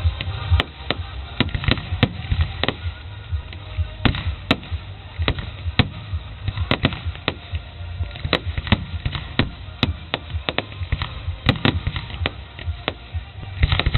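Fireworks going off: a rapid, irregular run of sharp bangs and crackles, several a second, with a deeper rumble underneath.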